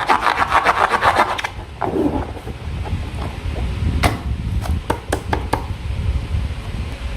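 Rapid repeated rubbing or scraping strokes from handling slime and balloons, about eight strokes a second for the first second and a half, then quieter handling with a few sharp clicks.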